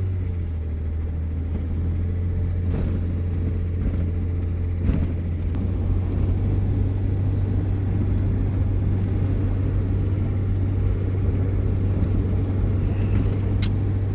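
Steady low drone of a vehicle's engine and tyres heard from inside the cab while driving on a snowy highway, with a few faint clicks and knocks along the way.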